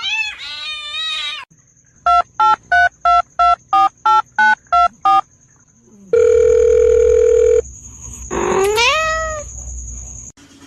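A cat meows, then a run of about ten short electronic beeps, about three a second, is followed by one long steady beep. Near the end the cat gives another rising meow.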